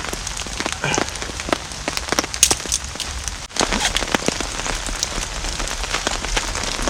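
Heavy rain falling, with many separate drops striking close by over a steady hiss of rainfall. The sound dips briefly about halfway through.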